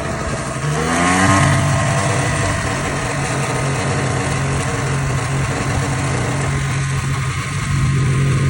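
Vespa LX 50 scooter engine revving up about a second in, then running at a steady pitch while riding. This is the running sound the owner describes as strange noises during the ride.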